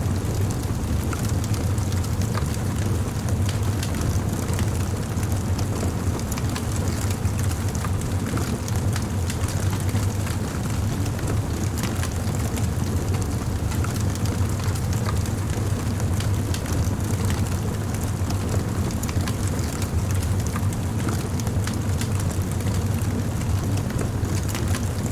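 Wood bonfire burning steadily, a low rumble of flame under frequent small crackles and pops throughout.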